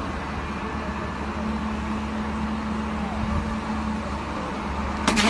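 An engine running steadily with a low rumble and a steady hum, and a few sharp clicks near the end.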